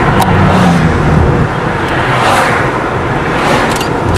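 A car driving, heard from inside the cabin: steady engine hum and road and tyre noise, with a few light clicks.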